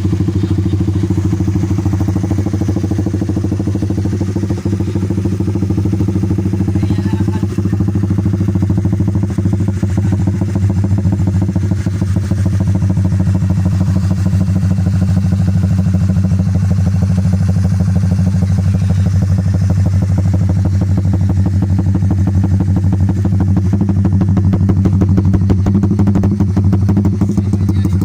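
Honda RS150's single-cylinder four-stroke engine idling steadily through a Creed GP Warrior open conical exhaust.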